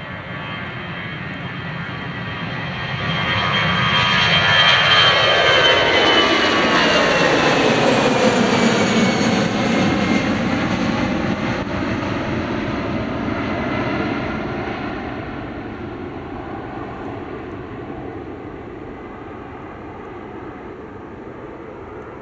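Jet airliner's engines at takeoff power as the aircraft passes close by. The roar builds to a peak about four to eight seconds in, then fades away, and the high fan whine falls in pitch as it goes past.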